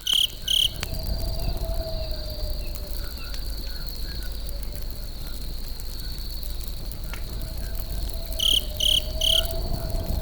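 Campfire crackling with a steady low rumble and scattered sharp pops, under an insect's steady high trill. Loud short chirps sound twice at the start and three times in quick succession near the end.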